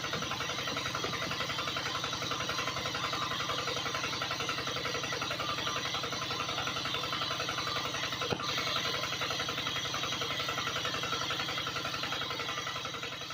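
A small motor running steadily with a fast, even buzzing pulse, with a single click about eight seconds in.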